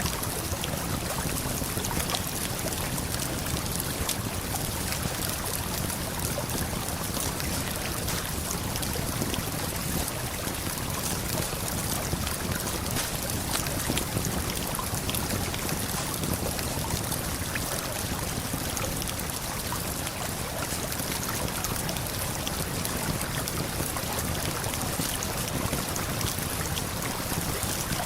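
Steady rushing of a river and waterfall, with faint, scattered crackles of a campfire.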